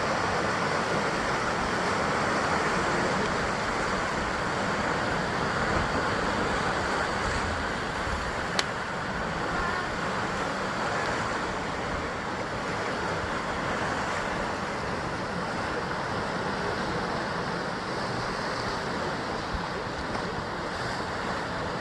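Ocean surf washing against a basalt rock coastline: a continuous wash of waves that swells and eases gently. One sharp click comes about eight and a half seconds in.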